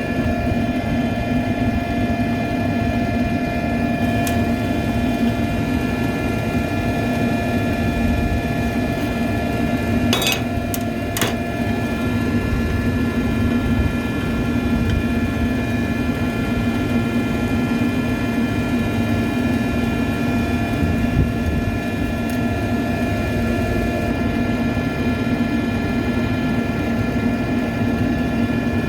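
Steady drone of rooftop exhaust fans and other HVAC equipment running, a constant hum with several fixed tones. A few sharp clicks come about ten and eleven seconds in.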